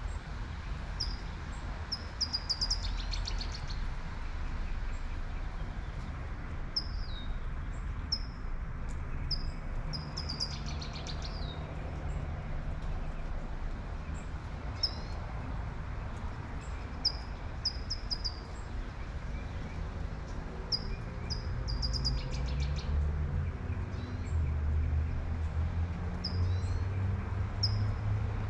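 Birds chirping in short, repeated high notes over the steady hiss of light rain, with a low traffic rumble that grows louder in the last few seconds as a vehicle approaches.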